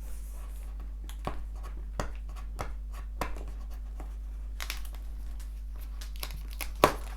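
Cardboard box being opened by hand: scattered light clicks, rustles and tearing of packing tape and cardboard, with one sharper knock near the end, over a steady low electrical hum.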